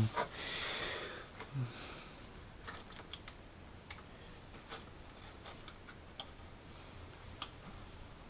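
Metal hand tools clicking and tapping as sockets are swapped and tried on a nut, with irregular light clicks and a short rustle about a second in.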